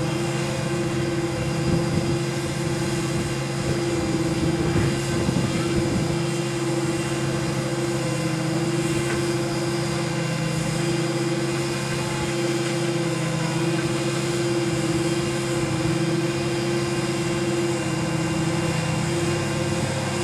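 A small propeller airplane's piston engine running steadily at idle, a constant drone with a slight waver in pitch.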